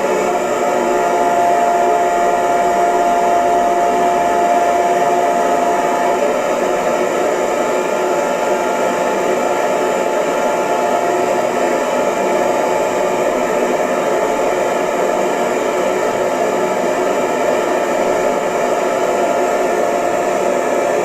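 Electric hair dryer running steadily, a loud even rush of air with a faint motor whine, its strongest tone dropping away about six seconds in.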